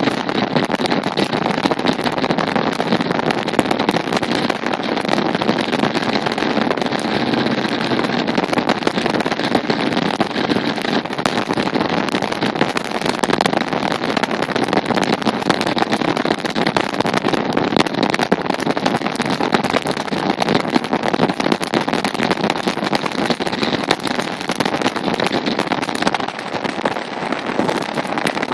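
Motorcycle running at a steady road speed: engine and rushing air blend into one even, continuous noise with no clear change in pitch.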